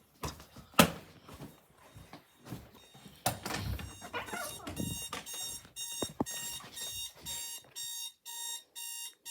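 An electronic alarm clock starts beeping about five seconds in, a steady high beep about twice a second. Before it come a couple of sharp knocks, as from handling the clock.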